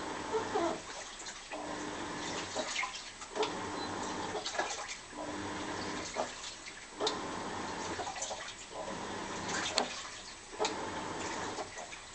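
Washing machine agitating through its wash cycle. The motor runs in strokes every two seconds or so, each giving a steady hum, and water sloshes between the strokes, with a few short squeaks.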